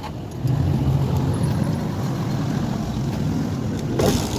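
A vehicle engine running with a steady low rumble, with a short burst of noise about four seconds in.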